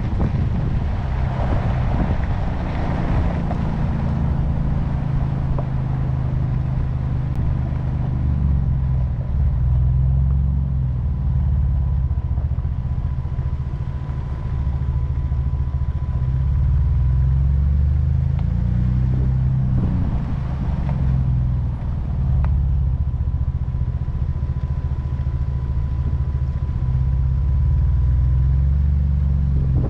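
Ford Bronco engine running at low revs while crawling along an off-road trail, its pitch rising and falling a couple of times as the throttle changes. A thin, steady high tone runs underneath for long stretches.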